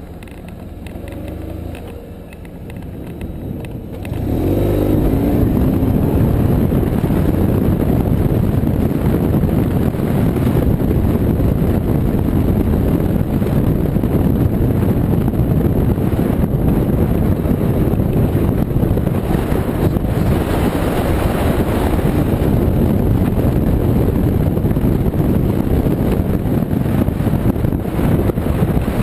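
Motorcycle engine running quietly, then pulling away about four seconds in with a rising engine note. After that comes loud, steady riding noise: the engine under way with wind rushing over the microphone.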